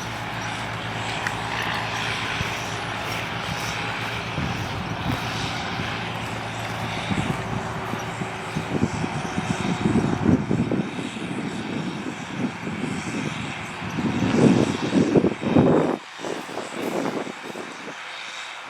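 John Deere 8300 tractor's six-cylinder diesel running steadily, growing louder and rougher after the middle and loudest about three-quarters of the way through, then dropping sharply near the end.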